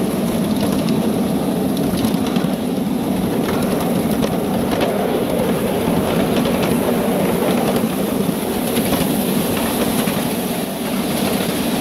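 Ride-on miniature steam train rolling along its track, heard from an open car: a steady rumble of the wheels with scattered light clicks.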